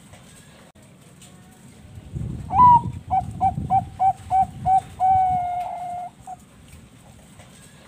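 Zebra dove (perkutut bangkok) singing its cooing phrase, starting about two and a half seconds in: a rising opening note, a quick run of about seven short clipped notes at roughly four a second, then one long held note.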